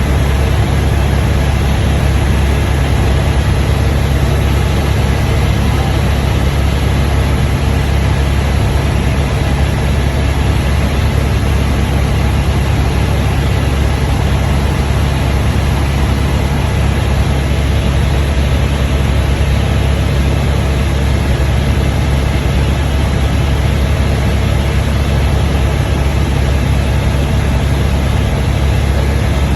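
Helicopter engine and rotor running in flight: a loud, deep, steady drone that does not change.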